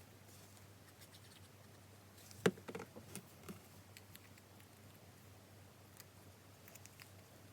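Faint rustling and small clicks of die-cut card pieces being handled and glued together, with one sharp tap about two and a half seconds in, followed by a few lighter ticks.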